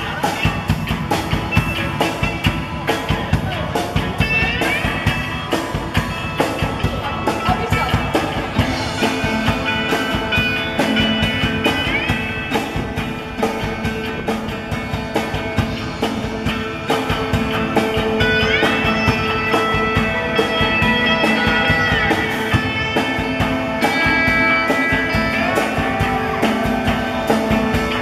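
Instrumental rock music: electric guitar with sliding notes over a steady drum beat. Guitar slides rise about four seconds in and again past the middle.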